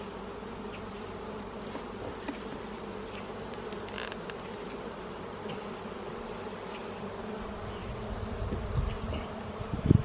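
Many honey bees buzzing from an opened hive, a steady hum. A low rumble builds near the end.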